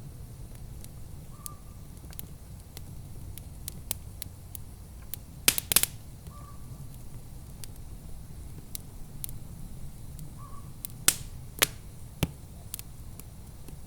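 Wood fire crackling in a fireplace: scattered sharp pops and snaps over a low steady rumble. A louder cluster of pops comes about five and a half seconds in, and a few more come between eleven and twelve seconds.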